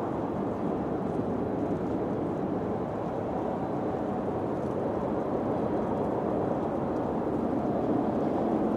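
Steady low rushing wind, with no distinct events, swelling slightly near the end.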